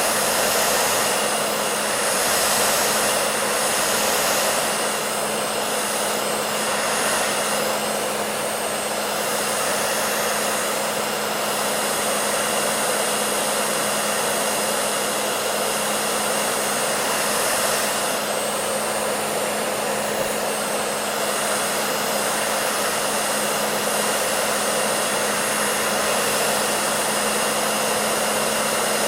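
Hair dryer running steadily: an even rush of blown air with a constant low motor hum under it.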